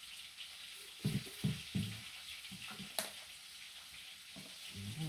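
Water running or trickling with a steady faint hiss while a small gem is rinsed. Three low thumps come about a second in, and a sharp click follows at about three seconds.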